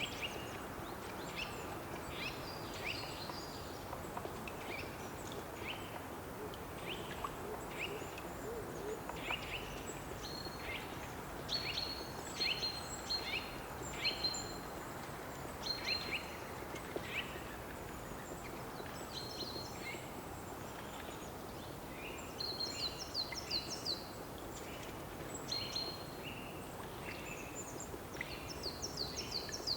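Songbirds calling and singing, a string of short chirps and whistled notes, with a fast trill a little past two-thirds of the way through and again at the end, over a steady outdoor background hiss.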